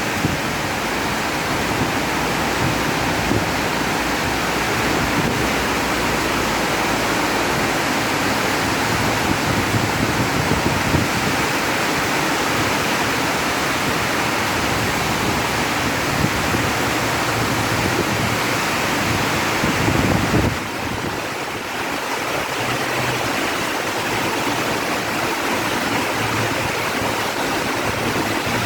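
Heavy rain falling steadily, a dense, even hiss. It eases slightly for a moment about two-thirds of the way through.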